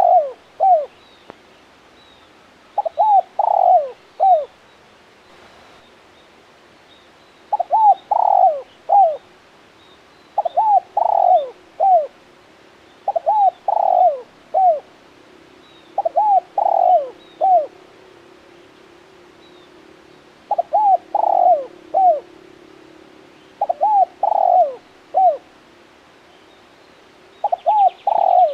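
Male spotted dove cooing its song over and over: phrases of three or four falling coos, repeated every few seconds. Faint high chirps of small birds sound behind it.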